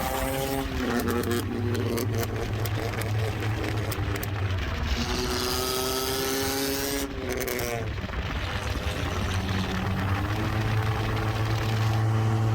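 2005 Honda Accord running through a custom dual exhaust with a Y-pipe, accelerating. The engine note climbs, drops sharply about seven seconds in as it shifts up, then climbs again.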